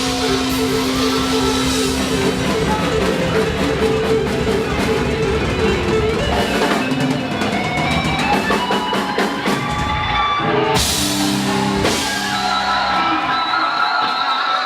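Overdriven electric guitar playing over a rock backing track with drum kit and bass. Near the end the drums and bass drop out and the last guitar notes ring on.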